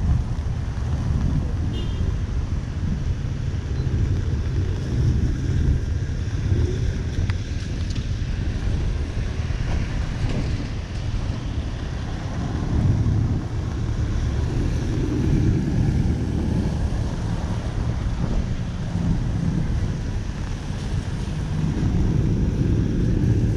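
City street ambience: a steady, fluctuating low rumble of traffic and wind buffeting the microphone, over a fainter hiss.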